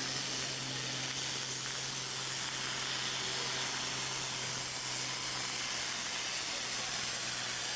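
A steady, even hiss with a low steady hum underneath, unchanging throughout.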